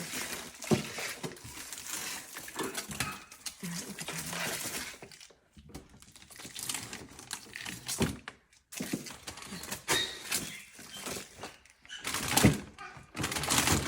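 Bags of frozen breast milk being handled in a freezer: scattered knocks and clunks of hard frozen bags with plastic rustling, the loudest knock near the end.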